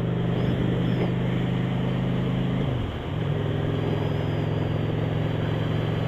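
Motorcycle engine running steadily while riding, with a rushing haze over it; about three seconds in its pitch and level dip briefly, then pick back up.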